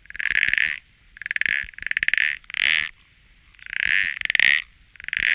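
An animal calling over and over: about half a dozen high, harsh calls, each under a second long. Many start with a quick rattle and run into a steady note, with short pauses between them.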